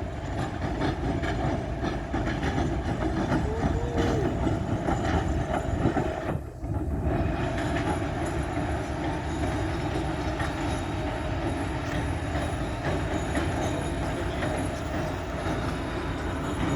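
A 2M62 diesel locomotive, with two-stroke diesel engines, running on the line: a steady, continuous train noise that drops out sharply for a moment about six and a half seconds in.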